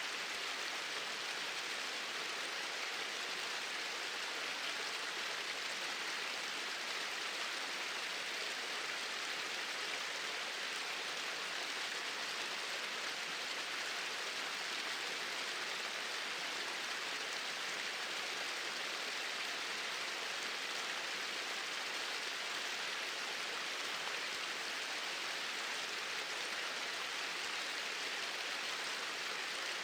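Small waterfall: water pouring steadily over a low drop, an even rushing hiss with no breaks.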